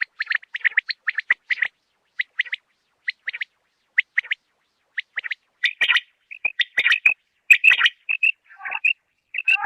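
Quail calling: quick clusters of short, sharp chirps, thinning to spaced pairs, then louder and denser from about six seconds in, with some lower, rougher notes near the end.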